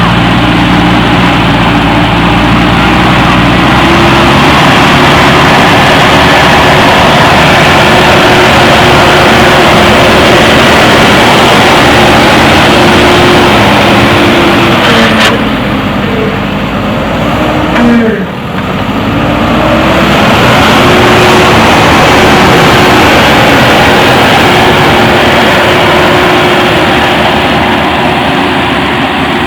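Diesel engine of a JCB backhoe loader running steadily at working revs. Its note dips and glides briefly about two-thirds of the way through, then comes back up.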